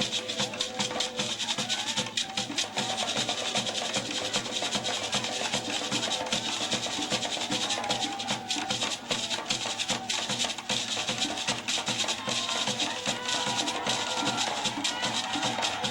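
West African drumming with shakers or rattles, playing a fast, steady rhythm, with faint singing voices over it.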